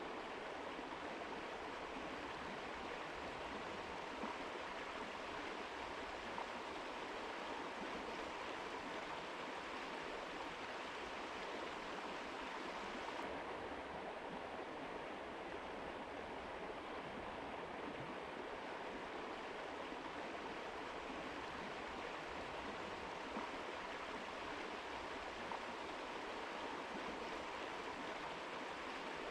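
Mountain river rushing over rocks, a steady, even hiss of flowing water.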